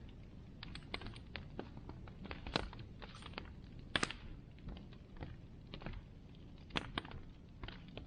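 Bonfire crackling: irregular snaps and pops over a low hiss, with a few louder pops about two and a half, four and seven seconds in.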